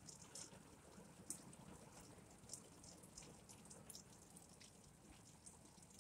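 Faint light rain falling, with scattered drops ticking irregularly, a few a second.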